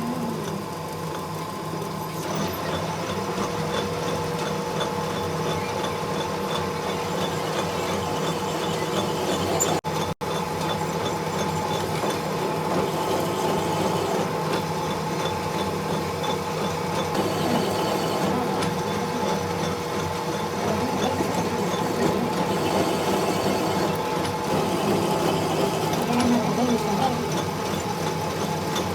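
A workshop machine running steadily under a motor, with a constant hum and a held tone through most of it, briefly cut off about ten seconds in.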